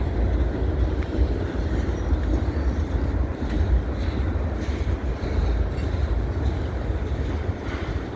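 CSX freight train rolling past: a steady, continuous rumble of the moving cars, with wind on the microphone.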